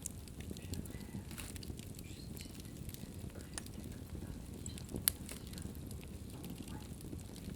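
Wood fire burning in a fireplace: a steady low rumble of flames with scattered crackles and pops, one sharp pop about five seconds in.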